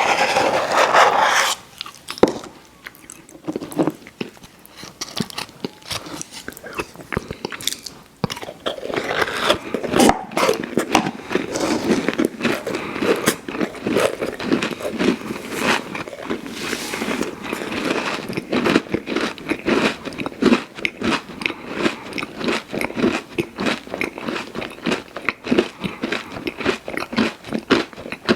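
Close-miked mouth sounds of biting into and chewing a crunchy pie dessert, with rapid crisp crunches. It opens with a loud crackling noise lasting about a second and a half. After a quieter few seconds, steady chewing picks up and runs on.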